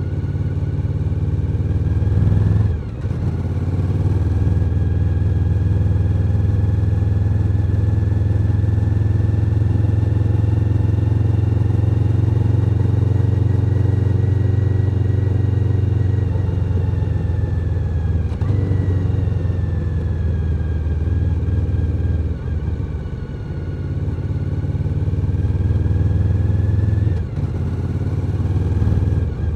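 Suzuki SV1000N's 996 cc 90° V-twin engine running under way, its pitch drifting up and down with the throttle. The engine sound briefly drops several times: about three seconds in, twice in the last third, and at the very end.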